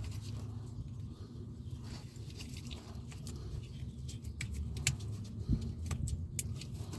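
Scattered sharp clicks and ticks of small parts being handled and fitted, growing more frequent in the second half, over a steady low rumbling noise on the microphone.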